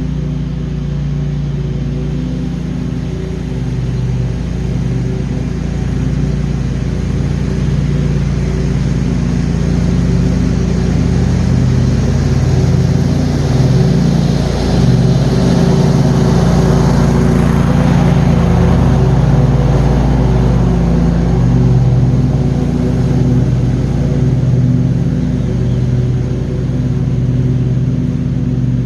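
John Deere QuikTrak 652R stand-on mower running steadily while mowing: a constant engine drone, with a rougher, louder stretch of several seconds midway.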